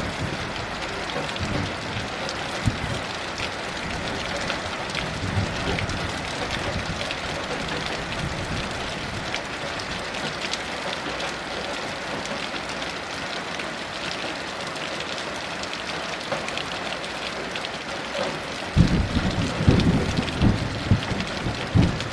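Heavy rain falling steadily with a dense patter of drops, and a low rumble of thunder rolling in near the end.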